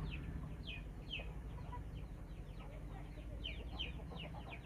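Faint bird chirps, short downward-sliding calls coming several times a second, over a low steady hum.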